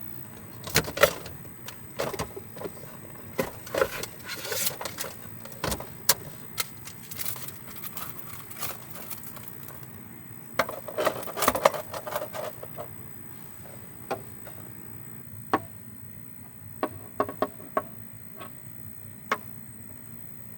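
Irregular clicks and clattering of small hard objects being handled, in clusters with gaps, thinning to a few single clicks near the end.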